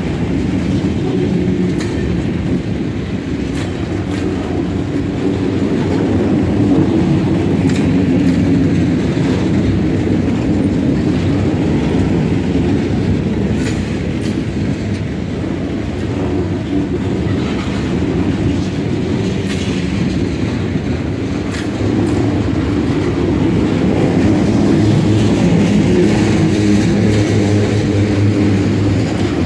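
Freight train cars rolling past close by: a steady rumble of steel wheels on the rails, with occasional sharp clicks.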